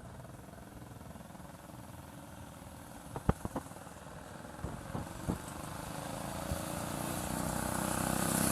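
Small engine of a vintage go-kart, fitted with a muffler and running on race gas with octane booster, pulling through a drag run. It sounds distant at first, with a few sharp clicks in the middle, and grows steadily louder toward the end as it comes closer.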